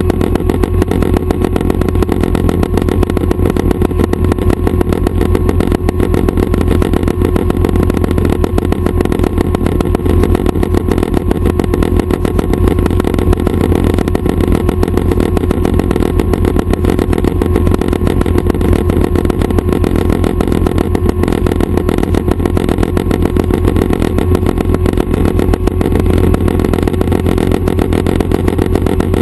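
Schweizer 269 light helicopter's piston engine and rotors running steadily: a constant loud drone with a fast, even pulsing.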